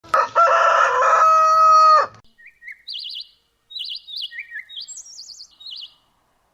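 A rooster crows once, a loud call held for about two seconds that cuts off sharply. It is followed by a series of short, warbling high-pitched bird chirps.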